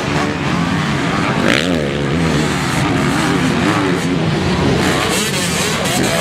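Several motocross motorcycle engines revving as the bikes ride the track, their overlapping notes rising and falling with throttle changes.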